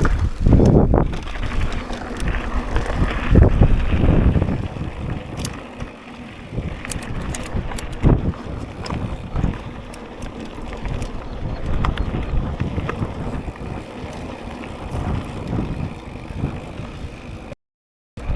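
Mountain bike riding a dirt trail: tyre rumble and knocks of the bike over bumps, under strong wind buffeting the action camera's microphone in gusts. The sound cuts out briefly near the end.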